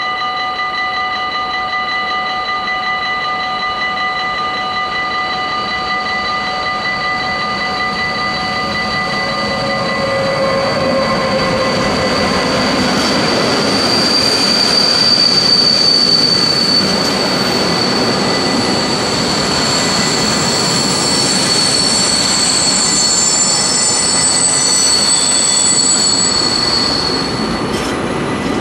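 Freight train running past at a level crossing: a steady ringing tone, most likely the crossing bell, for the first ten seconds or so, then a growing rush of wagons on the rails with a long, high wheel squeal from the passing cars.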